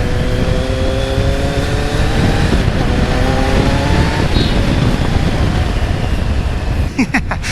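Kawasaki Z900's inline-four engine pulling under throttle, its pitch rising steadily for about four seconds, under a heavy steady rush of wind and road noise.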